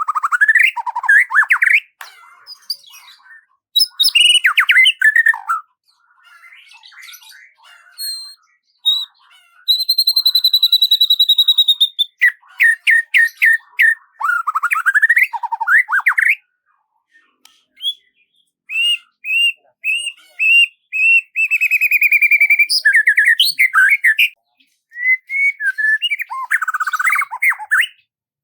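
Songbird song: varied phrases of fast trills, sweeping whistled notes and chirps, with short pauses between them, including a steady buzzy trill about ten seconds in and a run of quick repeated notes past the middle.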